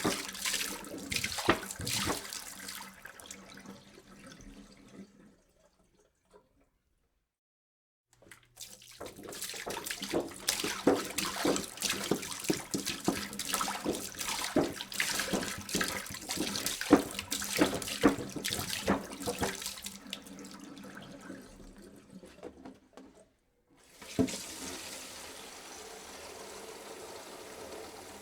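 Water being poured into a jug, splashing and gurgling, tailing off into silence about five seconds in. A second pour starts a few seconds later and runs splashing until near the end, then stops briefly. A smoother, steadier stream follows.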